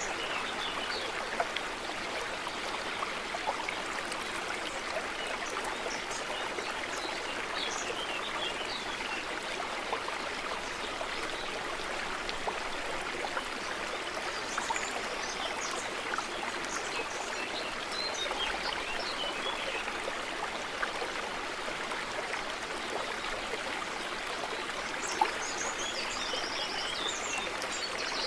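A stream running steadily, with small birds chirping over it now and then and a quick trilling call near the end.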